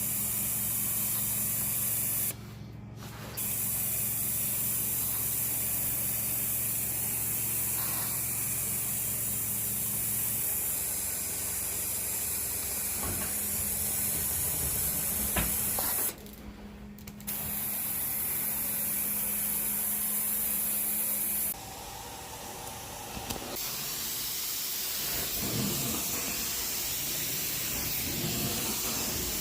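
Carpet-cleaning extraction wand running with a steady high hiss of spray and suction over a low hum. It drops out briefly twice.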